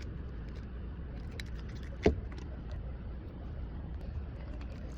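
A steady low hum with one sharp click about two seconds in and a few faint ticks after it.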